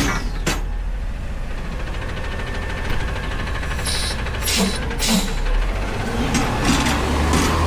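Front-load garbage truck's engine running at a steady idle, with a few sharp metallic clanks from the truck's lifting gear and bin.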